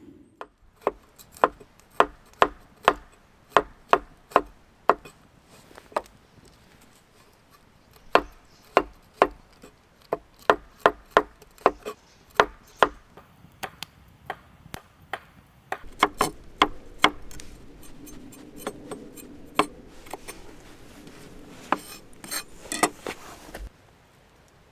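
Repeated chopping strikes on wood, about two a second, in two runs with a short pause between them; the second run is less even, with some scraping between the blows.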